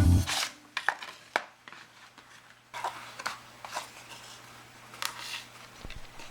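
Irregular light taps and clicks of small craft tools being set down and handled on a work table, a handful spread over several seconds.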